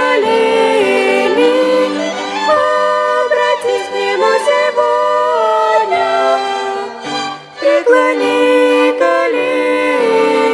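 Children's violin ensemble playing a slow melody in sustained, gliding notes, with a brief drop in loudness about three quarters of the way through before the playing resumes.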